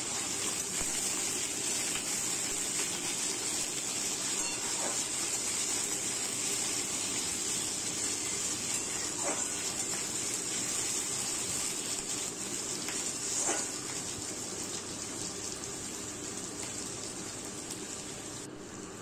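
Potato wedges and onions sizzling in hot oil in a kadhai: a steady frying hiss, with a spatula scraping through the pan a few times.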